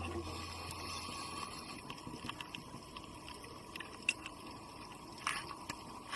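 Underwater ambience heard through a camera housing. A low rumble fades out in the first second or so, then faint crackling with scattered clicks, and a few sharper clicks near the end.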